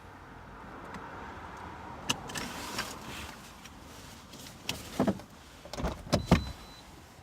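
Car noise with door latches clicking about two seconds in, then car doors thudding shut several times in the second half, the loudest near the end.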